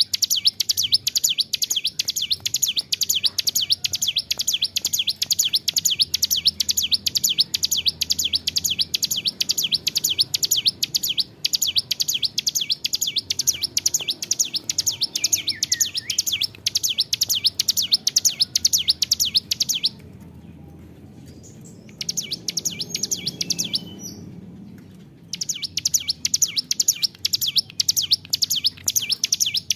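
Ciblek gunung (a mountain prinia) singing long unbroken phrases of rapid, high, repeated chirps. The song breaks off for about two seconds around twenty seconds in, and again around twenty-four seconds in, before starting up again.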